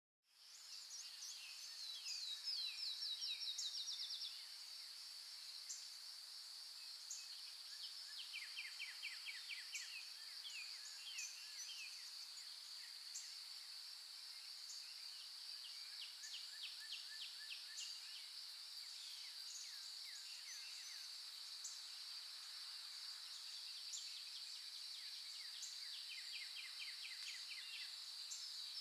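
Nature ambience: a steady high-pitched insect drone, with repeated bursts of rapid chirping trills over it.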